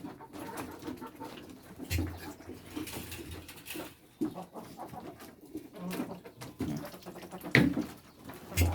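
Domestic pigeons cooing repeatedly, with a few sharp knocks, the loudest near the end.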